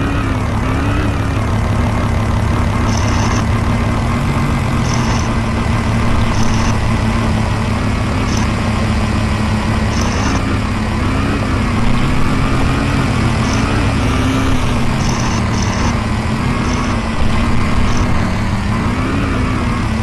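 Motocross bike engine running steadily, its pitch rising and falling slightly every second or two with small changes of throttle.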